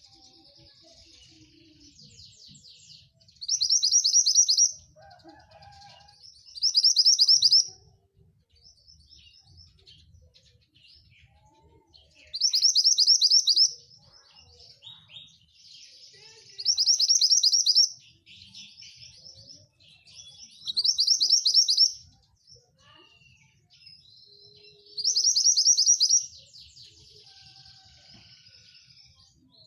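Javan bush lark (branjangan) singing: six loud, rapid trilled phrases, each about a second and a half long and spaced a few seconds apart, with softer chirps and chatter between them.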